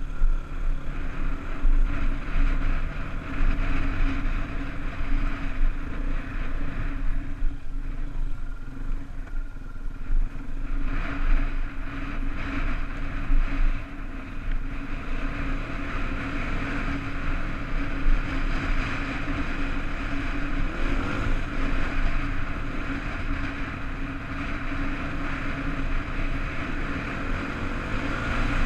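Honda dirt bike engine running as the bike is ridden, rising in pitch and loudness about eleven seconds in, with wind rumbling on the microphone.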